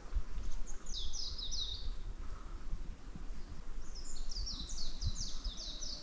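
A small songbird singing quick runs of high, falling chirps: a short run about a second in, then a longer run from about four seconds in, over a steady low rumble.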